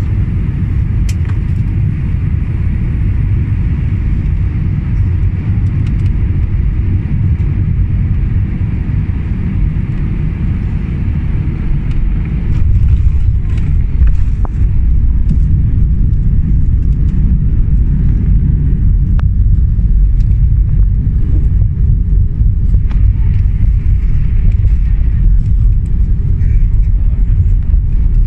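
Airbus A320 cabin noise during landing: a steady low rumble of engines and airflow that grows louder about twelve seconds in and stays up, with a few short knocks.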